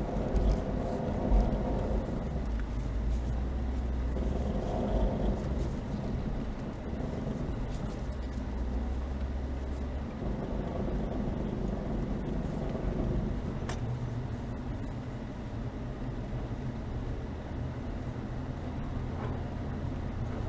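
Chevrolet Niva's four-cylinder engine running steadily as the car drives slowly through snow. The engine note shifts a few times, with some knocks in the first couple of seconds and a single sharp click about two-thirds of the way through.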